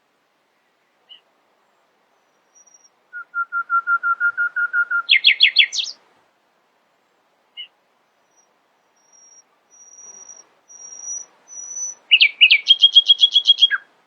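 Common nightingale singing: two phrases of rapid repeated notes, each jumping up to a faster, higher trill. Between them comes a thin, high whistle that swells in loudness over a few seconds.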